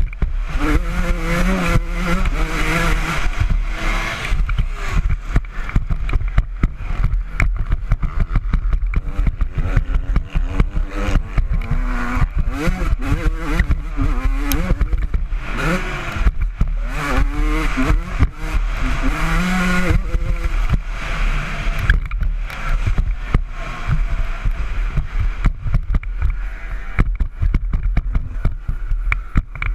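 Honda CR125 two-stroke single-cylinder engine being ridden hard, revving up and falling back again and again, over a constant low rumble and many short knocks.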